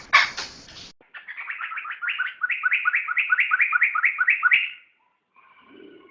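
Poksay (laughingthrush) calling: a few harsh rasping notes in the first second, then a fast, even run of repeated upslurred whistled notes lasting about three and a half seconds, ending in a faint softer call.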